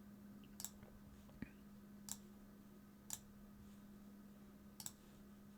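Near silence with a faint steady hum and about five isolated short clicks, like a computer mouse being clicked.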